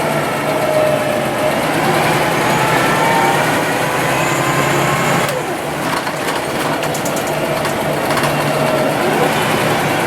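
Scania OmniLink city bus under way: engine and drivetrain running with a whine that rises and falls in pitch as the bus changes speed, over steady road noise. About halfway through the sound dips briefly, followed by a couple of seconds of rapid ticking.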